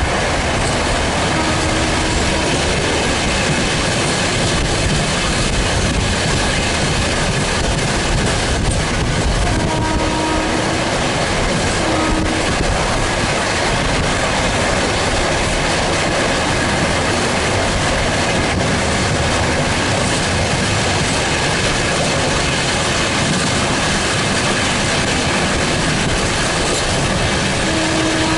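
Train running at speed on the track, a steady rushing din of wheels on rail with clickety-clack. Short low tones sound briefly a few times: about a second in, around ten and twelve seconds in, and near the end.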